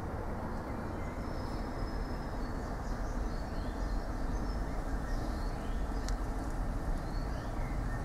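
Small birds chirping in the trees, with several short high calls in the middle, over a steady low rumbling outdoor noise.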